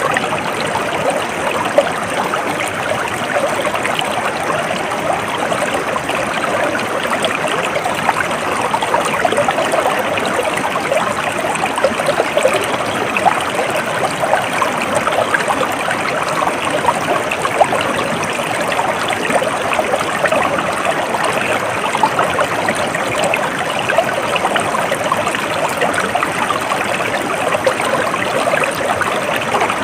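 A stream flowing steadily, water rushing and trickling over stones without a break.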